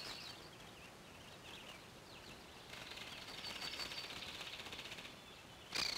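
Birds chirping faintly, then a rapid trill in the middle and a louder, shorter trill near the end.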